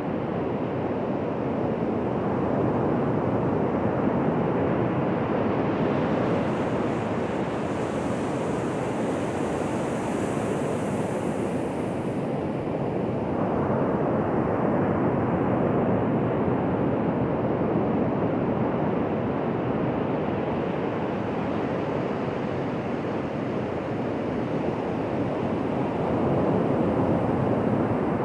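Ocean surf washing onto a beach: a steady rush of breaking waves that swells and eases every ten seconds or so.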